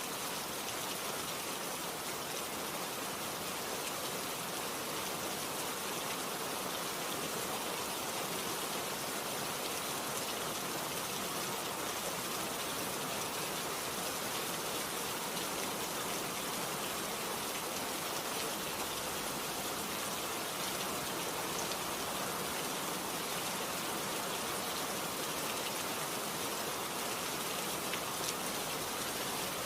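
Steady rain falling, an even dense hiss with faint individual drops pattering.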